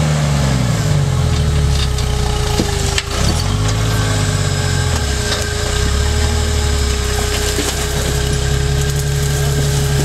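Jeep Wrangler YJ engine working in low gear on an off-road trail, its revs rising and falling twice and then holding steady, with a few sharp knocks about two and three seconds in.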